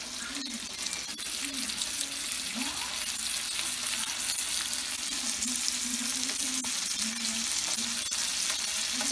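Salmon fillets frying in butter and oil in a skillet, the fat sizzling steadily.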